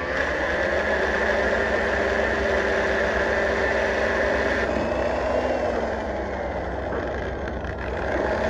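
An engine running steadily at idle. A higher-pitched tone over it stops about five seconds in.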